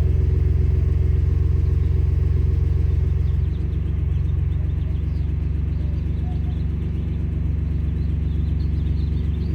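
Ford F-150 Raptor's 3.5L twin-turbo EcoBoost V6 idling on a cold start through a Flowmaster FlowFX muffler, a steady low exhaust rumble. About three and a half seconds in, the idle shifts down and gets slightly quieter.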